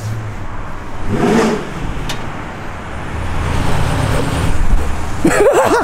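Pontiac GTO's cammed LS V8 rumbling as the car drives up, getting louder over the last few seconds; the owner says it has an exhaust leak.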